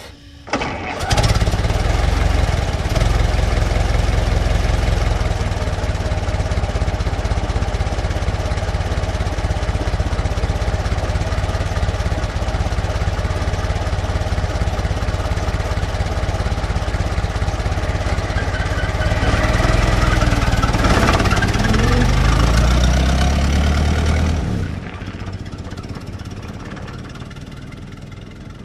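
Old car engine starting and running steadily, its pitch rising and falling about twenty seconds in, then dropping sharply and fading away near the end.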